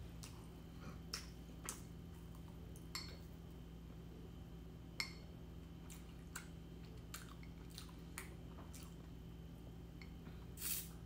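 Faint, wet mouth clicks and smacks from chewing soft raisin scone, about a dozen scattered at irregular intervals, then a short sip through a drinking straw near the end.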